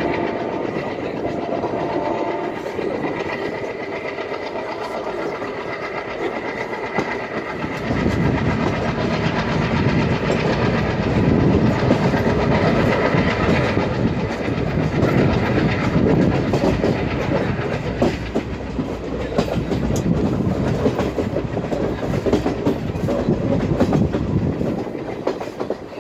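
Indian Railways train running on the hill line, wheels clattering over the rail joints with a continuous rumble. A horn sounds for the first couple of seconds, and the rumble grows heavier about eight seconds in.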